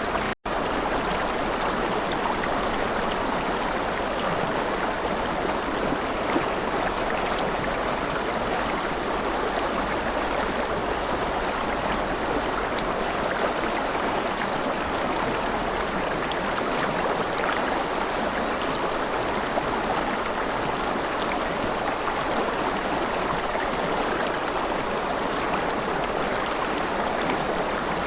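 River water flowing and splashing steadily, with a momentary dropout about half a second in.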